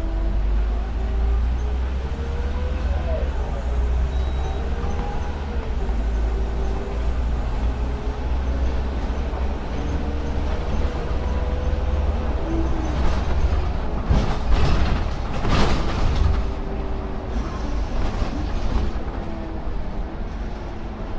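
Scania K310UD double-decker bus on the move: a steady low rumble of the diesel engine and driveline, with tones whose pitch rises and falls as the bus changes speed. A few short, sharp bursts of noise come about two-thirds of the way through.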